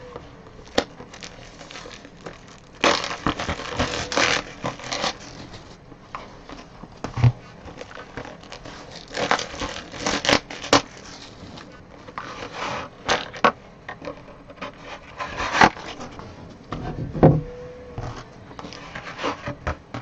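Trading-card boxes and packaging being handled and opened by hand: irregular bursts of scraping and rustling with sharp clicks and taps.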